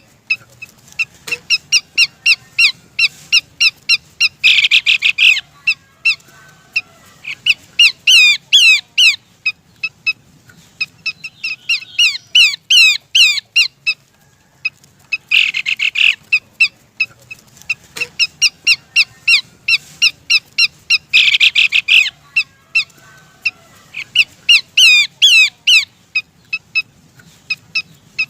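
Pelanduk semak (Horsfield's babbler) calling, played as a bird-lure track that is said to be a female calling a male. It gives rapid runs of sharp notes, short harsh buzzy bursts and quick downward-slurred whistles, in phrases that repeat every few seconds.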